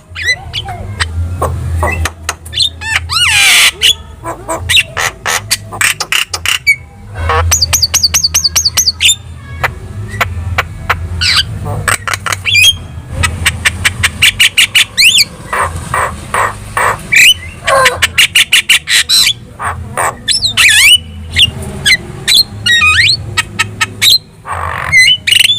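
Javan myna (jalak kebo) singing vigorously: a varied, loud run of harsh squawks, fast clicking rattles and high whistled notes, with short breaks between phrases.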